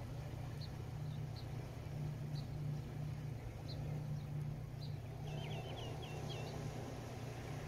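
Outdoor ambience: a steady low rumble under small bird chirps that come about once a second, with a quick twittering run of notes about five seconds in.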